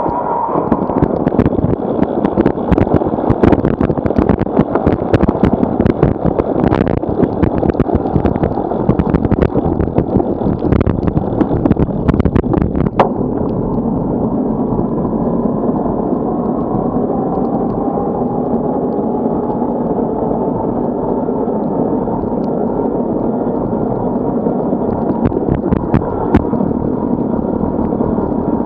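Strong typhoon wind buffeting the microphone while cycling: loud rumbling gusts with many sharp crackles and pops for about the first half, easing to a steadier rush about halfway through.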